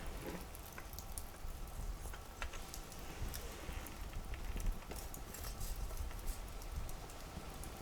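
Wood campfire crackling, with irregular small pops and snaps over a low steady rumble.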